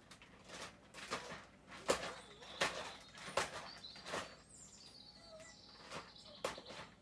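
Birds chirping faintly in the background, under a string of short, irregular clicks and rustles close by, about one every half second to second.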